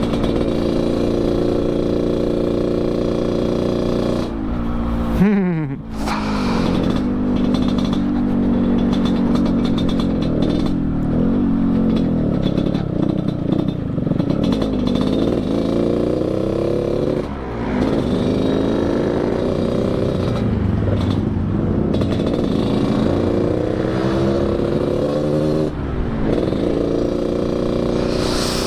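Yamaha RX-King's single-cylinder two-stroke engine through an underslung expansion-chamber exhaust tuned for a deep snoring growl, ridden under way. The revs climb and drop with the gear changes: a sharp fall in pitch about five seconds in, and shorter dips near 17 and 26 seconds.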